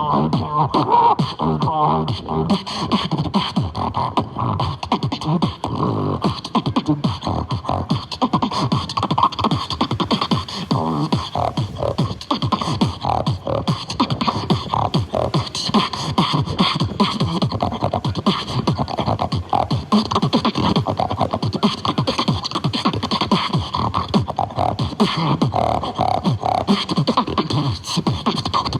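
Beatboxing: a person making fast, continuous drum-like beats with the mouth and voice, with pitched vocal lines woven in between the strokes.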